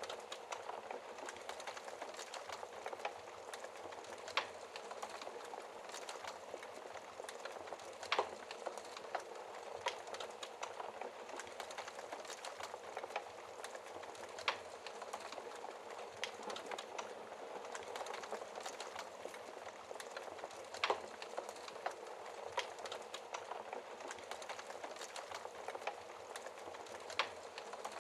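Logs burning in a fireplace: a steady hiss of flame with constant small crackles and a handful of louder pops at irregular intervals.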